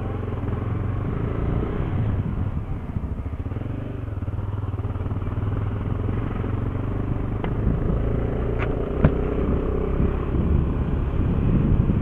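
Honda XRE 300's single-cylinder engine running at low speed, with a few short sharp clicks a little past halfway.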